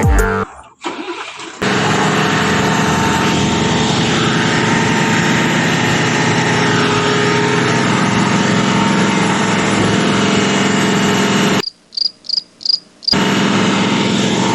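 A motor running steadily with a low hum. It cuts out for about a second and a half near the end, when a few faint quick ticks are heard, then runs again.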